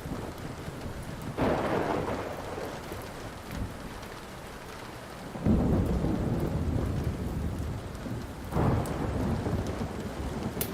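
Steady rain with three rolls of thunder breaking in about one and a half, five and a half and eight and a half seconds in, each dying away slowly; the middle roll is the deepest and loudest. A few faint crackles of a wood fire sound under the rain.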